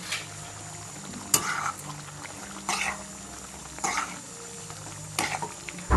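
Spoon or ladle stirring chicken curry in a cooking pan, a short scrape against the pan about every second and a quarter, over the low sizzle of the simmering curry as the chilli powder is mixed in.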